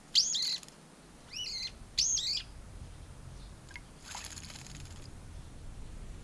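Garden songbird giving three short calls, each swooping up and down in pitch: one right at the start and two more over the next two seconds.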